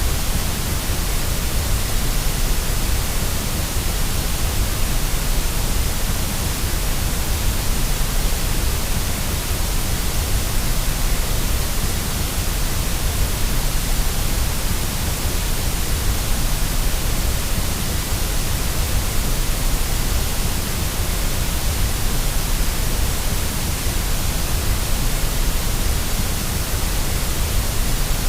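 Steady white noise for baby sleep: an even, unchanging hiss across the whole range, with a strong low rumble beneath it.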